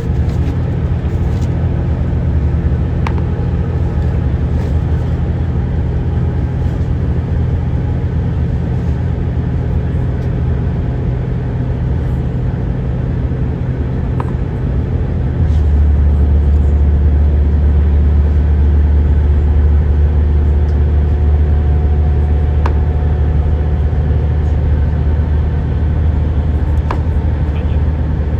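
Steady low rumble of a moving car, road and engine noise. About halfway through, the low drone steps up louder and then holds steady.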